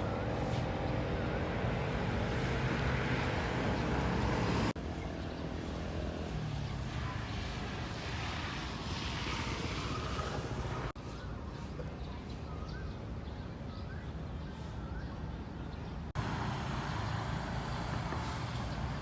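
Street traffic: vehicles running and passing, with a steady engine hum. The sound changes abruptly three times as one short recording cuts to the next.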